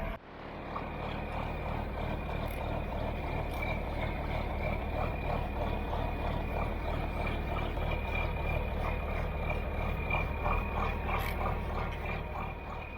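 John Deere 4440 tractor engine running steadily, with a thin, steady high-pitched whine over the low hum.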